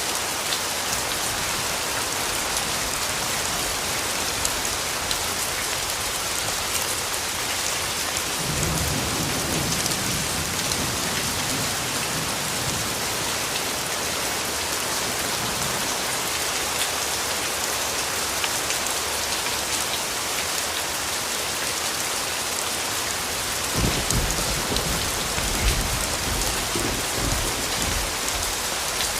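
Steady rainfall with distant thunder: one low rumble rolls in about a third of the way through, and a second starts suddenly near the end and rumbles on for several seconds.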